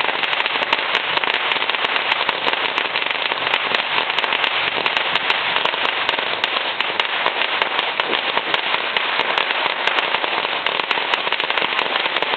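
Fireworks going off in a rapid, unbroken crackle of many small pops, steady in loudness throughout, like a long string of firecrackers.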